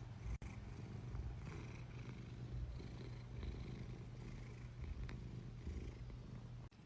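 A cat purring steadily in a low, throbbing rhythm. It cuts out for an instant about half a second in and stops abruptly just before the end.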